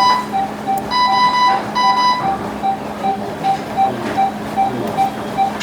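Anaesthesia monitor beeping with the pulse, a short tone about three times a second. In the first two seconds a higher alarm tone sounds twice in double bursts, over a steady low hum.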